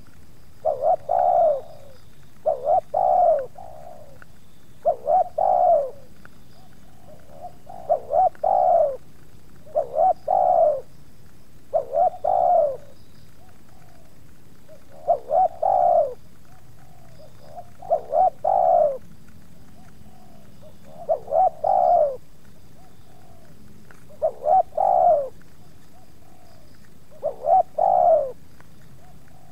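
Spotted dove cooing over and over: a phrase of two or three short coos every two to three seconds, with fainter calls between the phrases.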